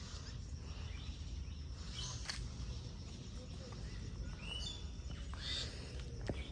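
Birds chirping a few short calls over a steady low rumble of outdoor background noise.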